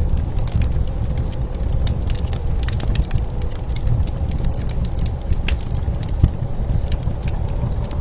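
Wood fire crackling with frequent irregular sharp pops, over a low steady rumble of blizzard wind.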